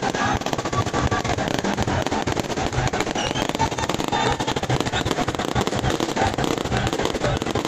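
Fireworks going off one after another, aerial shells bursting overhead in a dense, unbroken crackle of bangs.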